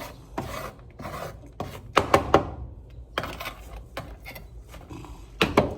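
A knife working on watermelon: a run of irregular short scrapes and knocks, loudest about two seconds in and again near the end.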